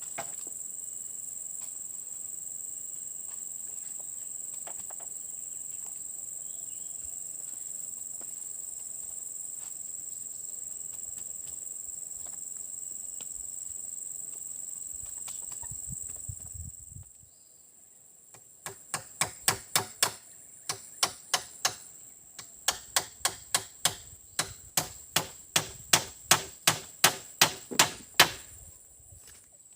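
A steady high-pitched insect drone that stops a little over halfway through, then a run of sharp strikes, about two or three a second in short series, as of a blade or tool chopping at wood.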